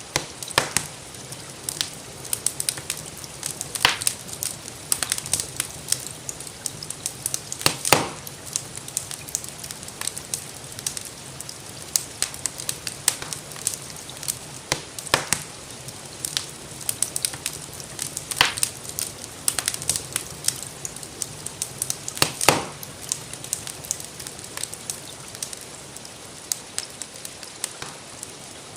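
Wood fire crackling and popping in irregular sharp snaps over a steady hiss, with a few louder pops, and light rain in the background.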